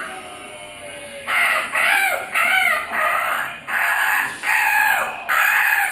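A pet parrot calling loudly in a run of about seven short, harsh squawks, one after another, starting about a second in.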